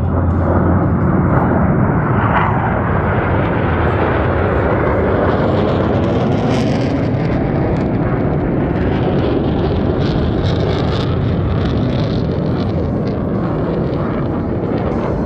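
Steady, loud jet engine roar from Blue Angels F/A-18 Super Hornets.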